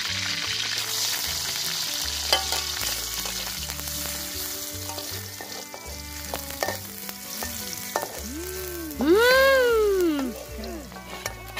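Shallots sizzling in hot oil in a wok over a wood fire, with a metal spatula stirring and scraping against the pan. Near the end, a loud pitched call rises and falls for about two seconds.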